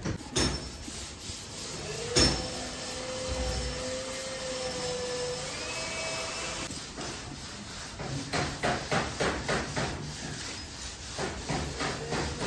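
Hammer blows on car body metal: two separate strikes, the second ringing on for a few seconds, then a quick run of blows at about three a second.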